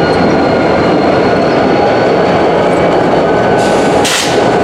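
Rail cars rolling past close by in a freight yard: a loud, steady rolling rumble of wheels on track with a thin, steady high squeal, and a short hiss about four seconds in.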